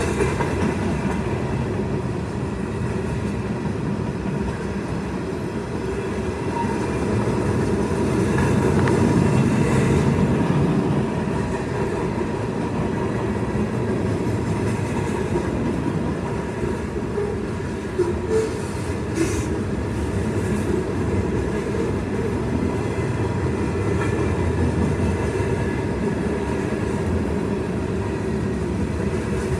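Norfolk Southern freight cars rolling past a grade crossing: a steady rumble and clatter of steel wheels on the rails, with a few sharp clanks about two-thirds of the way through.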